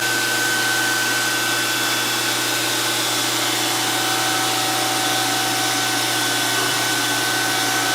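DoAll 14-inch surface grinder running with its hydraulics and grinding spindle started: a steady whirring hiss with a steady high whine and a low hum.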